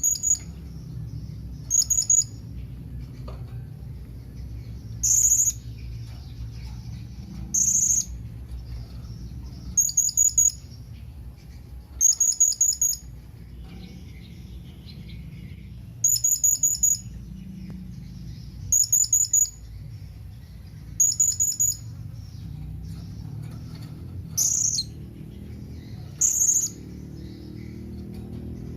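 Blue-crowned hanging parrot (serindit) giving its contact call to companions: short bursts of rapid, very high, shrill notes, repeated about every two to three seconds, over a steady low hum.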